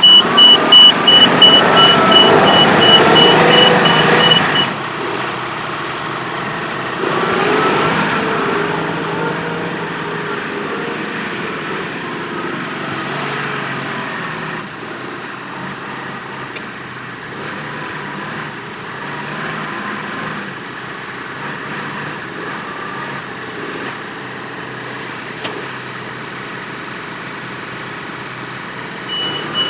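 Diesel engine of a John Deere 4052R compact tractor working under load. It is loud and rising in the first few seconds, with a rapid high beeping over it, then runs more steadily and quieter. The beeping comes back near the end.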